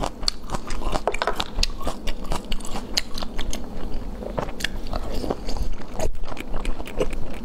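Close-miked chewing and biting of soft braised food, with many small wet mouth clicks throughout.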